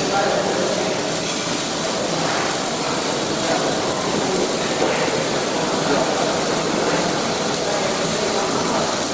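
Steady machine noise of a welding workshop: a constant hum and hiss from the welding equipment, unbroken and even in level.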